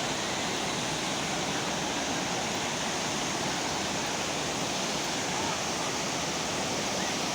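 Manimuthar waterfall's water falling and rushing, a steady even roar of noise.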